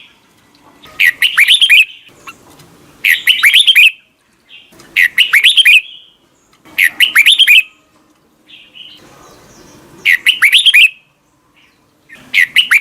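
Red-whiskered bulbul singing: short phrases of quick, sweeping whistled notes, repeated six times, one phrase about every two seconds.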